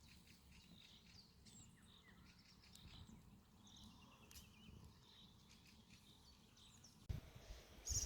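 Faint birdsong: scattered short chirps and calls from several small birds over quiet outdoor background. About seven seconds in, a louder low rumbling noise starts abruptly.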